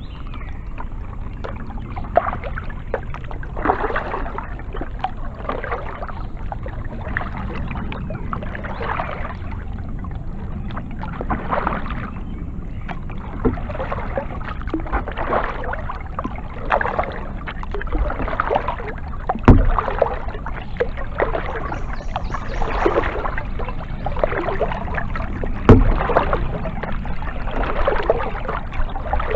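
Kayak paddle strokes: the blades dip and pull through the water in a regular splashing rhythm, about one stroke every second and a half, over a steady low rumble. Two sharp knocks stand out, the second about six seconds after the first.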